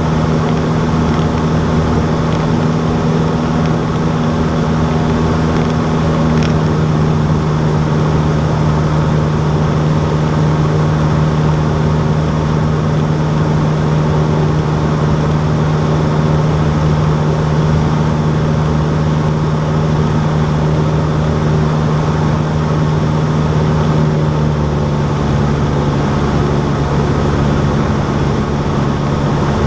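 Cessna 152's four-cylinder Lycoming engine and propeller droning steadily in flight, with a slight drop in pitch near the end.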